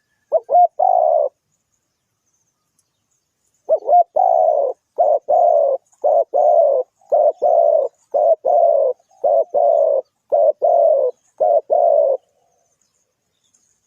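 A dove cooing: a short group of notes, then after a pause a run of about ten paired coos, roughly one pair a second, ending about two seconds before the end.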